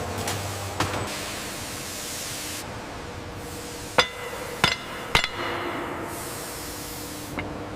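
Three sharp metal-on-metal strikes about half a second apart, each ringing briefly, over a steady hiss.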